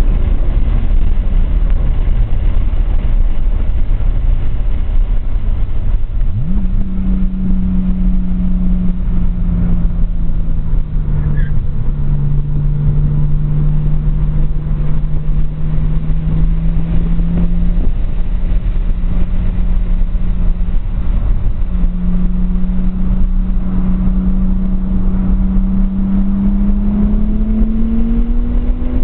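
Turbocharged RB20DET inline-six in a 240SX at track speed, heard from inside the cabin over constant road noise. The engine note falls away at the start, jumps up sharply about six seconds in, and holds fairly steady with a slight dip midway. It then rises again near the end under acceleration.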